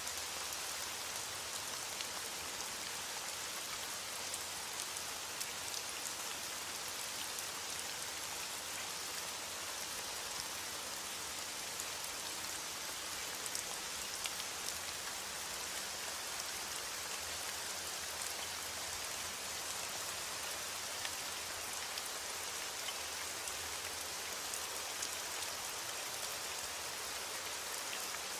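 Heavy rain on a window: a steady, even hiss with scattered faint ticks.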